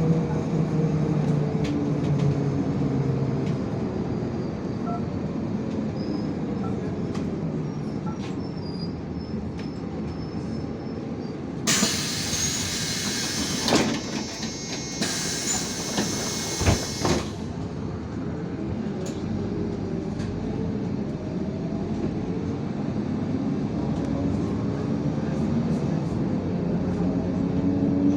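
IVECO Crossway 13M LE city bus heard from inside: the engine note falls as the bus slows, then two long bursts of compressed-air hiss come about halfway through, and near the end the engine note rises again as the bus pulls away.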